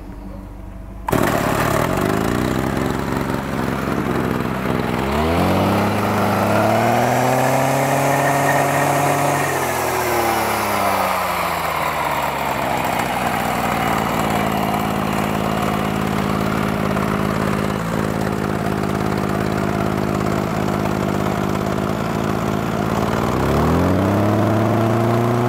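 Makita MEM201S engine brush cutter starting up about a second in and idling. It revs up with a rising pitch around five seconds in, holds, drops back to idle, then revs up again near the end.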